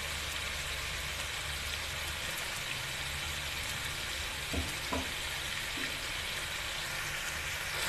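Quails and ginger-garlic paste sizzling steadily in hot oil in a wok, with two faint clicks a little past halfway.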